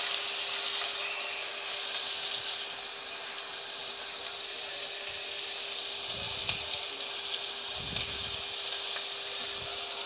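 Marinated pork, garlic and onion sizzling steadily in a hot frying pan as they are turned with metal tongs, with a couple of low thumps about six and eight seconds in.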